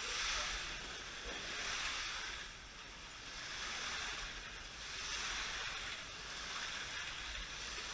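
Electric slot cars running laps on the track, a hissing whine of motors and pickups on the rails that swells and fades every second or two as the cars pass.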